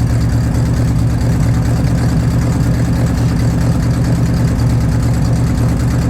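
Cold vehicle engine idling steadily, with an even low drone and no revving.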